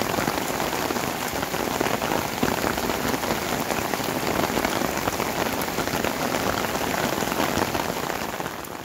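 Heavy sudden rain shower falling on corrugated roofing: a dense, steady wash of drops hitting the roof. It fades out near the end.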